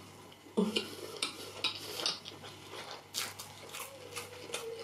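Close-miked mouth sounds of someone chewing a mouthful of rice and beans porridge: a string of short wet smacks and clicks.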